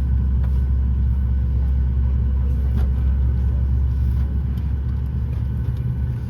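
Cabin noise inside a Boeing 737-9 MAX: a steady low rumble with a faint, even hum above it.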